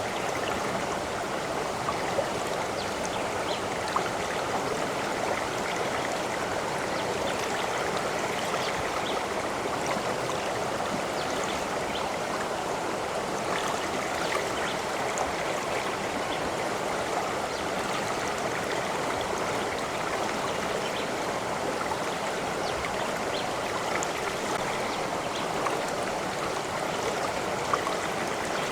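Flowing water running steadily, like a small stream, with faint little splashes and drips scattered through it.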